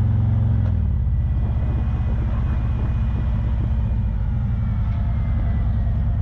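Motorcycle engine running steadily at road speed, a deep low rumble; the engine note eases slightly about a second in.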